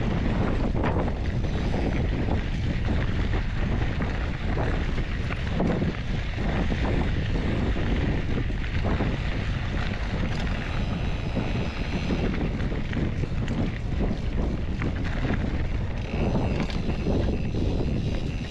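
Wind rushing over the microphone of a mountain biker riding a fast trail, a steady loud rumble with occasional knocks from the bike over the rough ground.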